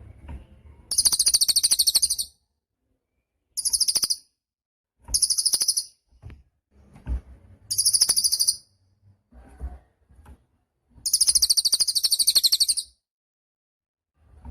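Cililin songbird singing in five bursts of fast, high trills, each about one to two seconds long, with short pauses between them. Faint low knocks sound in the gaps.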